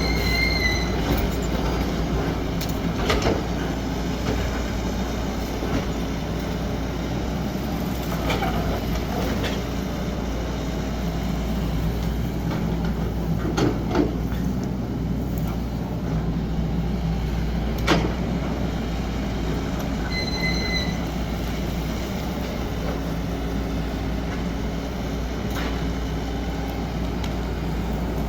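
XCMG 75 excavator's diesel engine running steadily as the machine works, with a low rumble throughout. A few sharp knocks and clanks come from the machine, and two brief high squeals sound near the start and about twenty seconds in.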